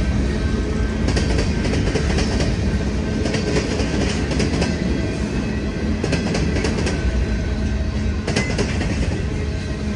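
Freight train cars rolling past with a steady low rumble, the wheels clacking irregularly over rail joints.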